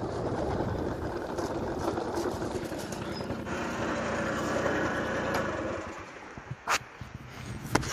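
Lowered Honda Vision moped's small engine running steadily under throttle, then dropping away about six seconds in, followed by a couple of sharp knocks.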